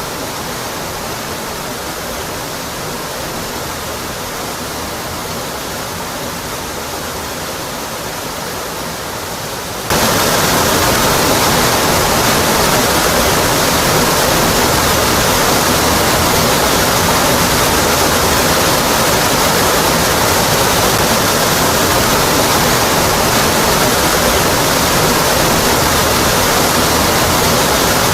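Waterfall rushing steadily, water pouring down onto rock. About ten seconds in, the rush jumps suddenly louder and brighter and then holds steady.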